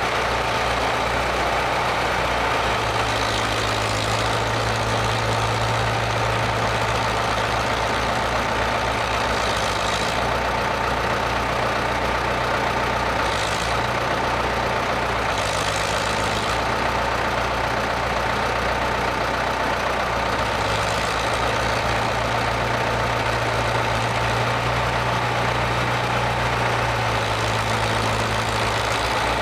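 Ford 6610 tractor engine running steadily, with a constant high whine alongside the engine hum.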